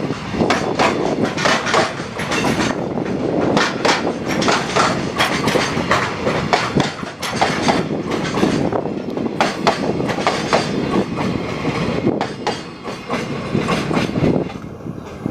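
Freight train wagons rolling past, wheels clicking irregularly over rail joints over a steady rumble.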